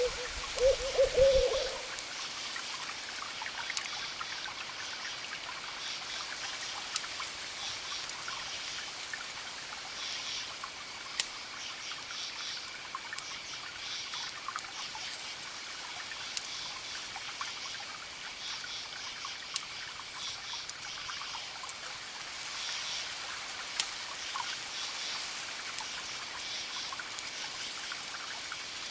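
Campfire crackling with sharp pops over a steady wash of distant ocean waves, while crickets chirp in repeated pulsing groups. In the first two seconds a low two-note hoot sounds out.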